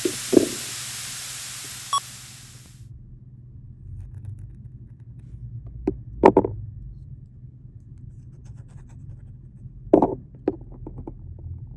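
Cooking play with small kitchenware: a hiss fades out over the first three seconds. Then come a few light knocks and clicks, the clearest about six and ten seconds in, over a low steady hum.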